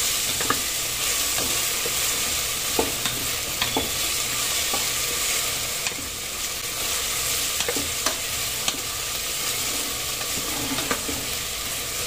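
Chopped onions, green chillies and curry leaves sizzling in ghee in an aluminium pressure cooker, a steady hiss. Irregular taps and scrapes of a wooden spatula against the pot's metal come through as the mixture is stirred.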